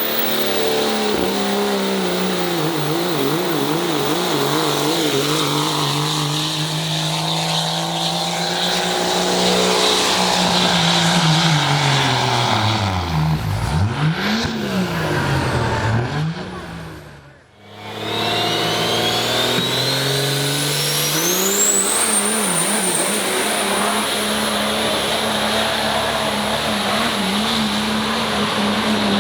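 Pulling truck's diesel engine held at high revs under load, its pitch wavering; about halfway it drops and bounces before the sound briefly cuts out. The engine comes back with a turbocharger whistle that climbs steeply and then holds as a steady high whine over the engine.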